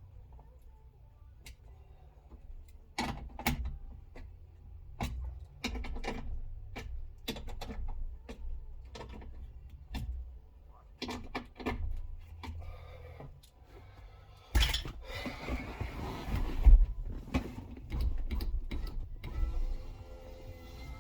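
Clicks and knocks of hand work on a car door's window regulator, then a louder noisy stretch with a sharp bang. Near the end the new electric window motor of an MG ZR front door starts running with a steady whine.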